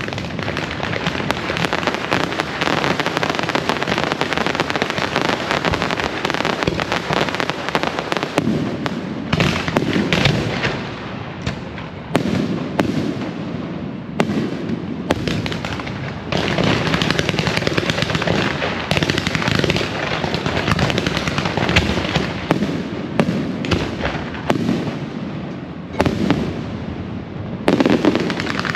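Dense, continuous barrage of firecrackers and electrically fired fireworks, crackling and banging without pause, easing briefly a few times before surging again.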